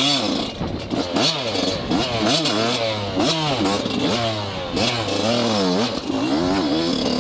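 Yamaha YZ125 two-stroke dirt bike engine being ridden, its pitch rising and falling over and over as the throttle is worked on and off, with some light clattering.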